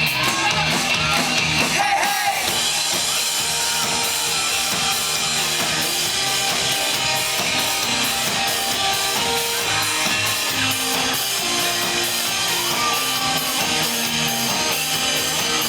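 Live rock band playing an instrumental passage with electric guitar, drums and synth, with crowd noise at the start.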